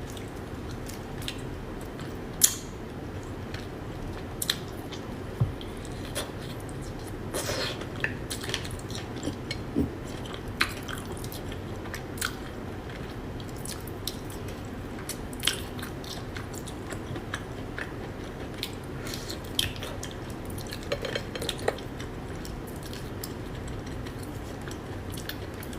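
A person eating steamed mantis shrimp: biting and cracking the shells and chewing, with scattered sharp clicks and crunches every second or two.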